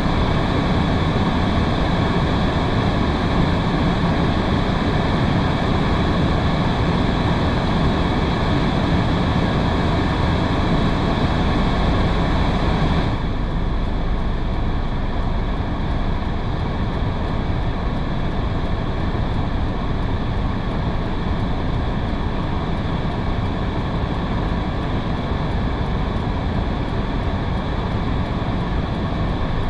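Steady noise of a car driving on a rain-soaked road: tyre hiss on wet tarmac with rain. About 13 seconds in the sound suddenly loses some of its hiss and low rumble and becomes slightly quieter.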